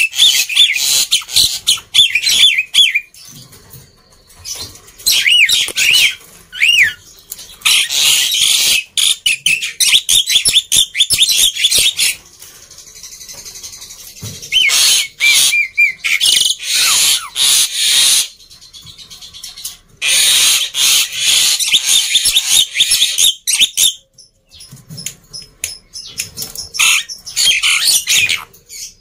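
Black-winged myna (jalak putih) calling noisily: bursts of harsh, raspy chatter mixed with short whistled notes, broken by brief lulls about four, twelve and twenty-four seconds in.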